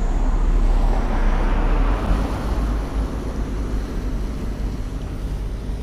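Camera drone's propellers whirring as it climbs away, the sound fading after about two seconds, over a steady low rumble of wind on the microphone.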